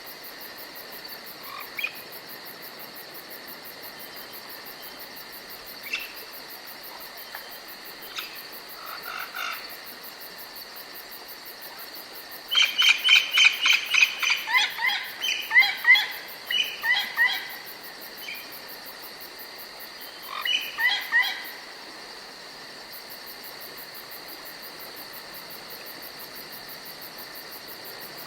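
Steady high-pitched cricket chirring, with bursts of rapid, repeated frog croaks: a loud run of calls starting near the middle and a shorter one about three quarters of the way through.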